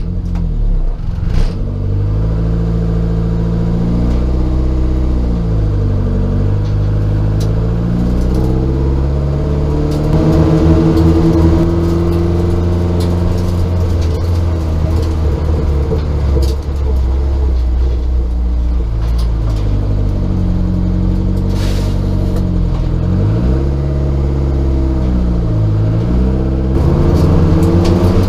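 Rover 200 Turbo race car's engine heard from inside the stripped cabin, pulling away under moderate load. The revs rise and fall several times, with gear changes, as the car drives out onto the circuit.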